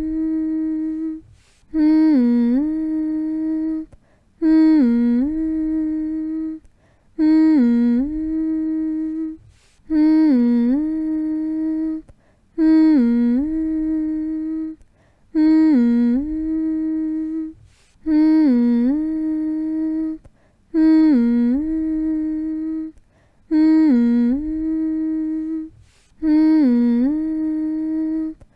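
A voice humming the same short phrase over and over, about once every two and a half seconds. Each hum dips in pitch and comes back up, holds one steady note, then breaks off for a brief pause. It is a soothing, lullaby-like hum meant to settle a baby to sleep.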